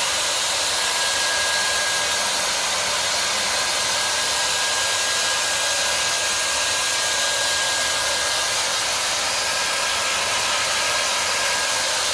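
Steady, even static-like hiss with a faint high steady tone in it, constant in level throughout.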